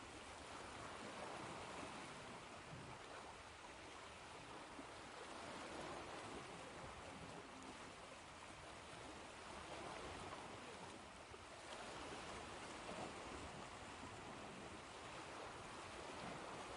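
Ocean surf washing on a shore, a soft, even hiss of water that swells and eases every few seconds.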